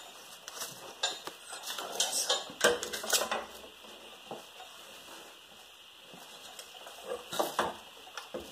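Hand tools clinking and clanking against metal while a rear wheel hub is being worked off, with a cluster of sharp metallic knocks in the first few seconds and a couple more near the end.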